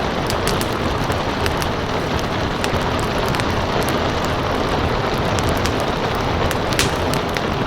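Steady rain hiss with a crackling fireplace over it: irregular sharp crackles and pops, one louder pop near the end.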